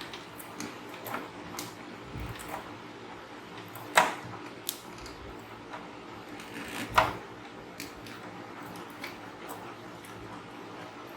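Scattered small clicks and taps of tools and small parts being handled at a repair bench, with two sharper knocks about four and seven seconds in.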